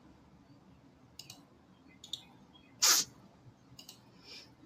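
A few faint computer mouse clicks, and about three seconds in one short, breathy puff, like a sniff or quick exhale close to the microphone, which is the loudest sound.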